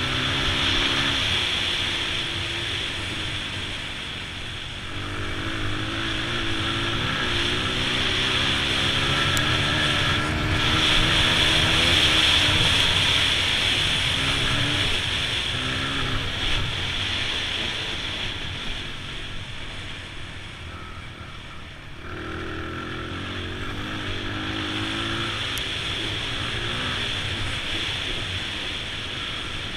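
2002 Honda XR100's small single-cylinder four-stroke engine being ridden hard, its pitch rising and falling over and over with throttle and gear changes. The engine eases off for a few seconds about two-thirds of the way through, then pulls up again.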